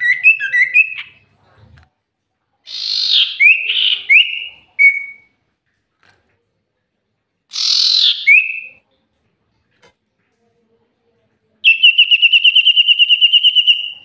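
Common iora (cipoh) calling: quick chirps at the start, then harsh rasping notes each followed by a short whistled slur about three and eight seconds in, and a rapid, even trill of about eight notes a second near the end.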